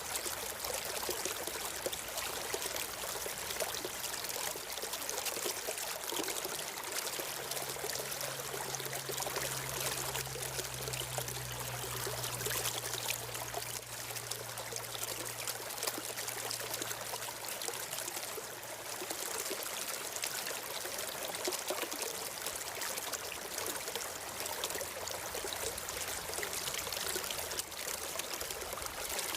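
A stream of water flowing steadily, a constant trickling rush that does not let up.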